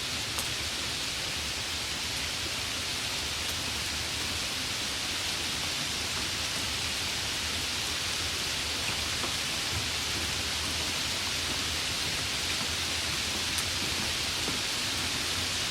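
Steady heavy rain, an even hiss with a few faint drop ticks.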